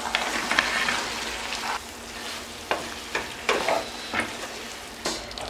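Fried chicken lollipop pieces dropping into sizzling masala sauce in a non-stick kadai and being stirred with a wooden spatula. The sizzle is strongest for the first couple of seconds, then runs quieter, with the spatula knocking against the pan several times.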